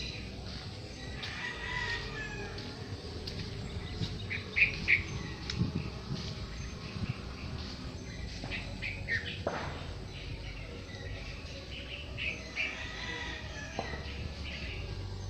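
Birds chirping in short bursts a few times, over a steady low background rumble.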